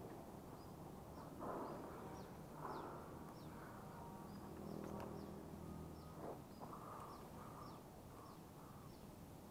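A bird repeating short, high, falling chirps about twice a second, faint, with soft scuffs and rustles of a climber against bark and leaves now and then.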